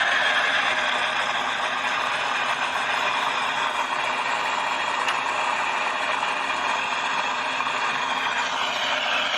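Car engine running steadily with a mechanical rattle. Its sound shifts near the end.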